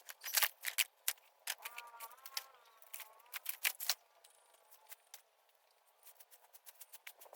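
Irregular sharp cracks and clicks, thick for the first few seconds and then thinning out, with a faint wavering pitched call among them.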